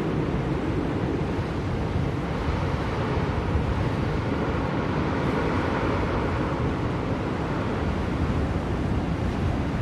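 Steady wind of a snowstorm blowing, a deep even rush with a gentle swell about halfway through.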